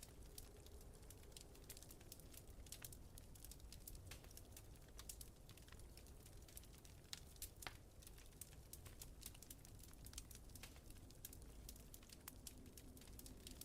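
Wood fire crackling in a fireplace, faint, with irregular small pops and a few sharper snaps, over a low steady rumble.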